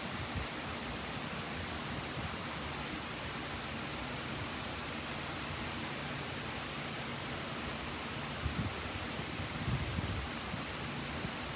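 Steady rain from a thunderstorm, a constant even hiss, with a few brief low bumps in the last few seconds.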